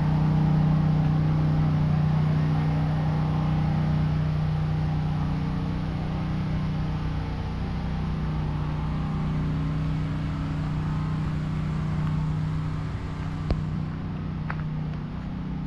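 A steady engine hum at a constant pitch, easing off slightly toward the end, with a single sharp click near the end.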